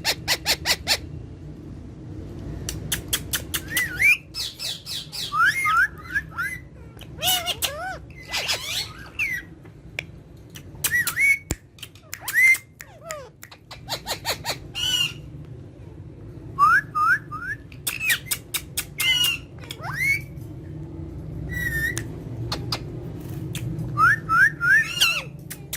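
Pet parrots calling: runs of rapid harsh squawks alternating with short rising whistles in quick sets of three or four, over a steady low hum.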